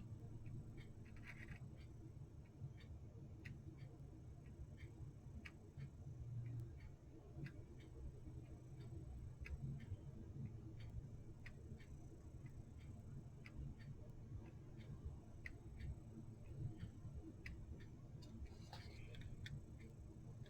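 Reassembled wall clock ticking faintly and steadily, about one tick a second, with a brief rustle of handling near the end.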